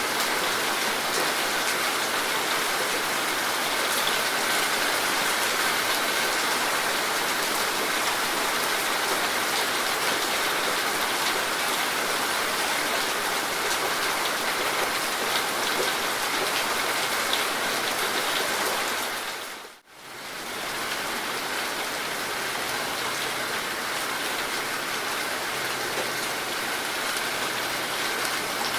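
Heavy rain falling steadily, with drops pattering on surfaces. About two-thirds through, the sound dips away sharply for a moment and swells back.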